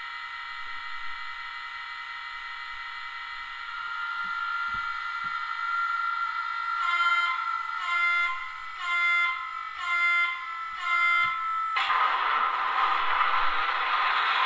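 Small speaker in a Trix Class 77 model diesel locomotive playing its sound start-up. A steady high tone comes first. From about seven seconds in, five short horn toots follow about a second apart. Near the end a noisy rush with a rising whine sets in as the diesel prime mover sound starts.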